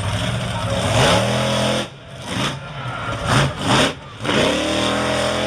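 Monster truck engine revving hard, its pitch climbing and falling under the throttle. It cuts back sharply about two seconds in and again about four seconds in, then climbs once more.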